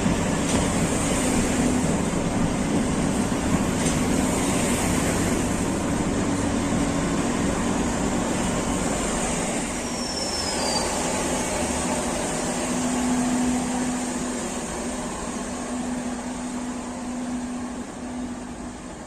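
Train running on its rails with a steady rumble and hum, and a brief high wheel squeal about ten seconds in; the sound fades over the last few seconds.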